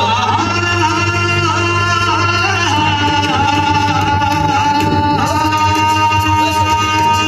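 Singing in a Marathi ballad over instrumental accompaniment: one voice draws out a long, ornamented note that wavers at first, then holds steady for the last few seconds.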